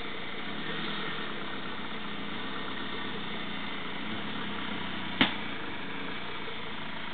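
Car engine running steadily at low speed as the car creeps along. A single sharp click about five seconds in.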